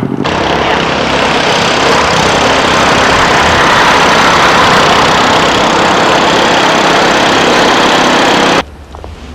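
A heavy engine running loud and close, a steady dense noise with a low hum under it, which cuts off abruptly near the end.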